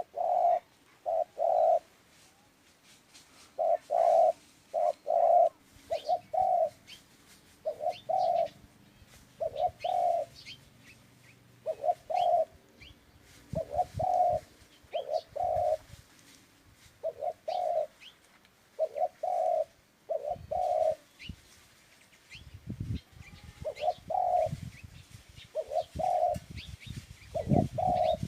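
A dove cooing over and over, short low coos in groups of two or three with gaps of a second or so, while small birds chirp faintly in the background. Low thumping noise comes in during the second half.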